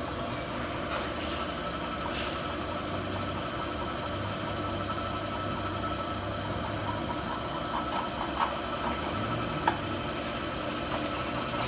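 Drill press running steadily under its own motor and belt drive, with a thin steady whine. A few light ticks and two sharp clicks come about eight to ten seconds in.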